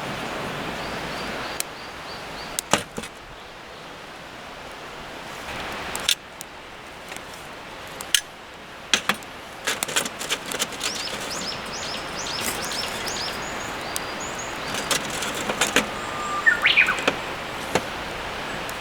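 Birds chirping over a steady outdoor hiss, with scattered sharp clicks and cracks throughout.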